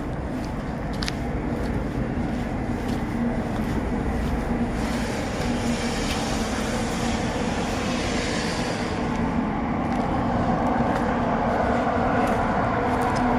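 Diesel engine of a heavy construction machine running steadily, slowly growing louder, with a hissing noise laid over it for about four seconds in the middle.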